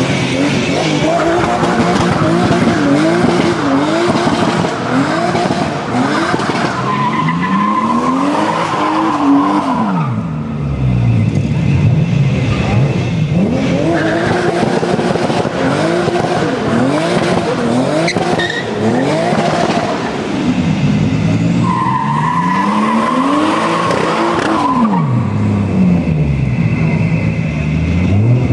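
A car engine revving hard and dropping back again and again as the throttle is worked, with tyres squealing in drawn-out skids, twice standing out clearly, as in drifting.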